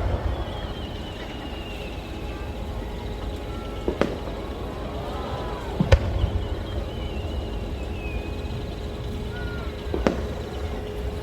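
Firework shells bursting four times, a few seconds apart. Between the bursts come wavering, slowly falling high whistles from the 'bee' (hachi) stars whizzing about as they burn.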